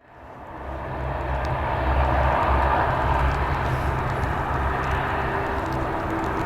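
Airliner engine noise from a passing aircraft: a broad rushing rumble that fades in at the start, is loudest about two seconds in, then eases slightly.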